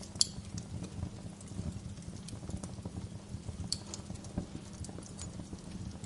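Wood fire crackling: a dense run of irregular low knocks with scattered sharp snaps, the loudest pops about a quarter of a second in and again just under four seconds in.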